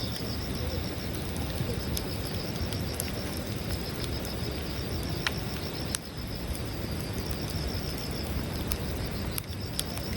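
Wood campfire burning with a steady hiss and a few sharp crackling pops, over a continuous pulsing trill of insects.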